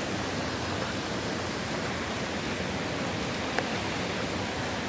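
Steady rushing noise of wind and rain from an approaching hurricane. One sharp tick sounds about three and a half seconds in.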